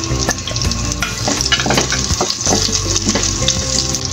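Minced garlic and sliced onion sizzling in hot cooking oil in a wok, with a few light knocks and scrapes of a wooden spatula against the pan.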